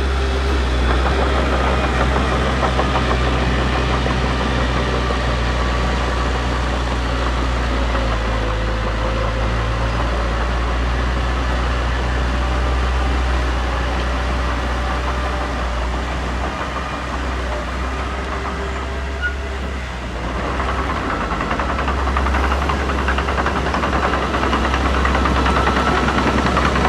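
Diesel engine of heavy earthmoving equipment running steadily with a deep low hum; it eases off briefly about twenty seconds in, then picks up again.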